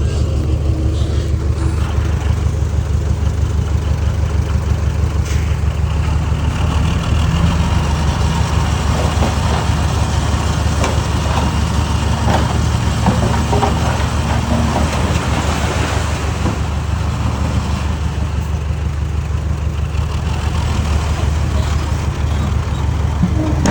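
Large diesel engine of heavy earth-moving machinery running steadily at a low, even pitch, with scattered clatter and rattling through the middle of the stretch.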